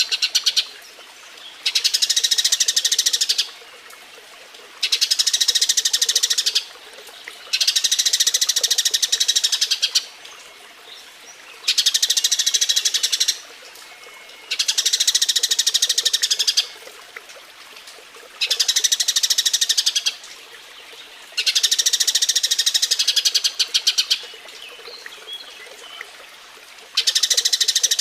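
Eurasian tree sparrow's mating chatter: bouts of rapid, high chirping about two seconds long, repeated over and over with short pauses between them.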